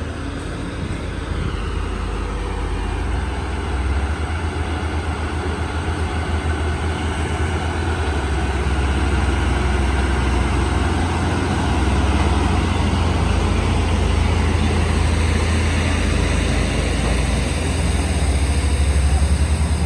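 Heavy diesel truck engines running with a deep, steady low rumble that grows gradually louder, labouring while a stalled tanker truck is towed up a steep climb.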